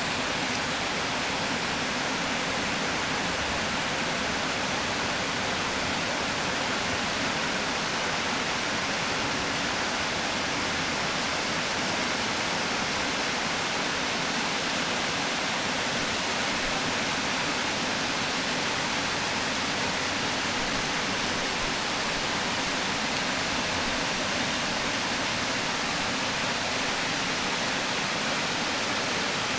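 Water pouring steadily over a river weir: a constant, even rush of white water.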